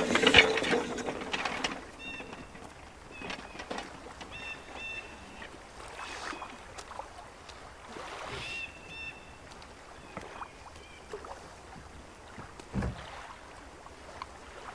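Quiet open-air shore ambience with faint, short high bird calls every second or two. There is a louder rush of noise in the first second and a half, and a soft low thud about thirteen seconds in.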